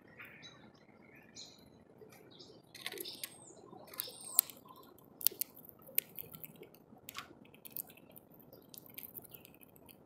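Small birds giving short high chirps and chips, mixed with sharp clicks that come irregularly; the loudest comes a little past four seconds in.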